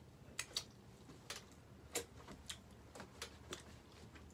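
Mouth sounds of someone chewing pizza close to the microphone: irregular wet clicks and smacks, about eight to ten in four seconds.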